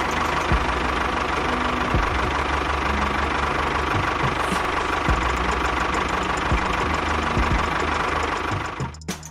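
A small engine or motor running steadily with a dense rattling noise, cutting off abruptly about nine seconds in.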